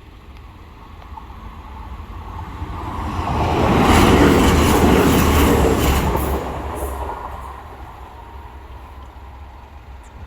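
A train passing at the level crossing: it grows louder over a couple of seconds, is loudest for about two seconds in the middle with a few clicks of wheels over the rail joints, then fades away.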